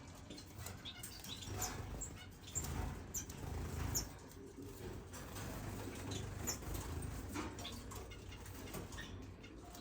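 Caged pet finches fluttering their wings, with scattered short high chirps, over a low steady rumble.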